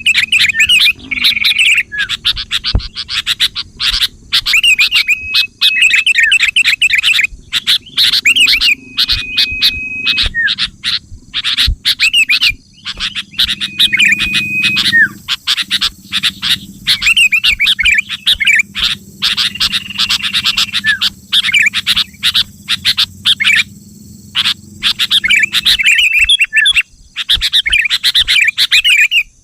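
Sooty-headed bulbul (kutilang) song: a dense, unbroken run of rapid chirps, warbles and short whistled notes, as used in a lure recording to call other bulbuls.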